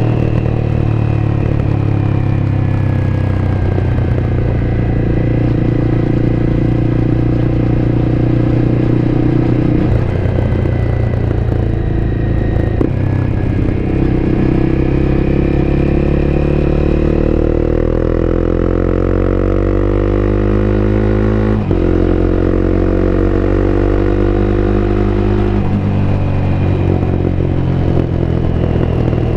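Honda CBR250R's single-cylinder engine running under way, heard from on board. The pitch climbs steadily as the bike accelerates over several seconds, jumps at a gear change past the middle, then drops away as it slows near the end.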